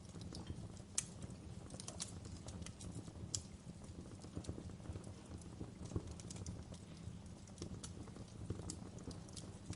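Wood fire burning in a fireplace, crackling with irregular sharp pops and snaps over a low steady rumble of the flames. The loudest snaps come about a second in and near six seconds in.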